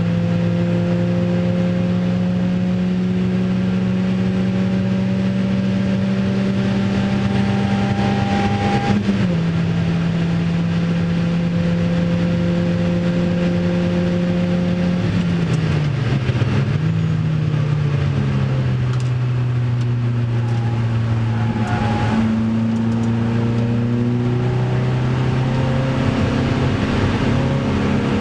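Opel Speedster's 2.2-litre four-cylinder engine under hard acceleration, heard from inside the cabin. The engine note climbs steadily, drops sharply with a gear change about nine seconds in, and climbs again. Around fifteen to seventeen seconds in it steps down several times as the car brakes and downshifts, then pulls again with a slowly rising note.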